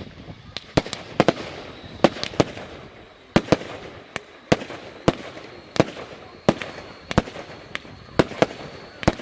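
Fireworks display going off: a steady run of sharp bangs, about two a second, each with a short echoing tail.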